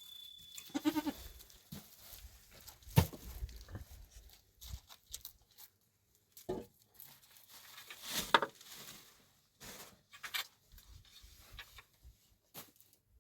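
Goats bleating, one call about a second in and another at about eight seconds, with scattered sharp knocks and clicks in between.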